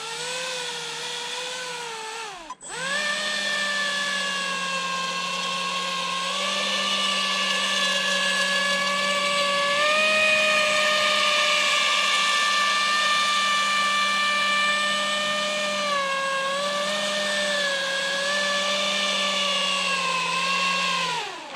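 Pro Boat Aerotrooper RC airboat's electric motor and stock air propeller running at speed, a loud steady whine. About two and a half seconds in the throttle cuts out sharply and comes straight back, the pitch shifts a little now and then, and near the end the motor winds down.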